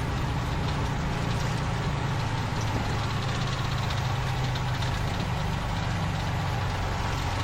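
Boeing 737 landing roll heard in the cockpit: a steady rumble of the engines in reverse thrust and the wheels on the runway as the jet slows.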